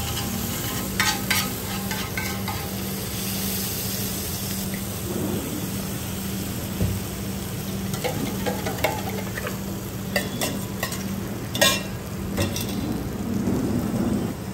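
Oil and chopped green ingredients sizzling steadily on a large flat iron griddle (tawa), with a metal spatula scraping and clicking against the iron now and then, most sharply about two-thirds of the way through.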